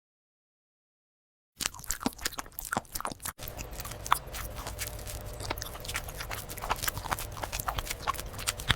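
Dead silence for about a second and a half, then an animal chewing and crunching food, with irregular crisp bites over a low steady hum.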